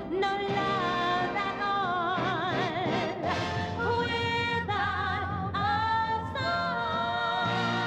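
Female vocal group singing sustained notes with vibrato over orchestral accompaniment, in a live concert performance.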